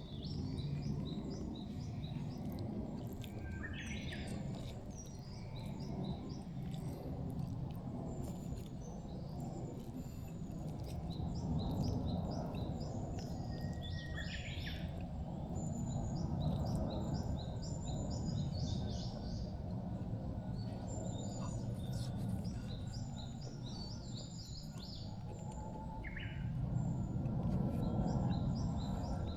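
Songbirds calling in quick runs of short, high repeated chirps, with a few longer calls between them, over a steady low rushing background.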